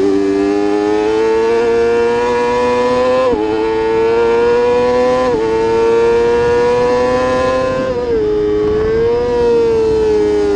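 Racing superbike's engine under hard acceleration, its note climbing steadily and dropping sharply twice, about three and five seconds in, as it shifts up through the gears. Around eight seconds in the note falls off as the throttle closes for a corner, with one short rise and fall a second later.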